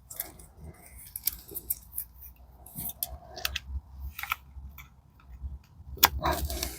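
Light metallic clicks and scrapes of small gearbox parts being handled by hand, synchronizer keys and springs being fitted into a synchro hub, with a louder clatter about six seconds in.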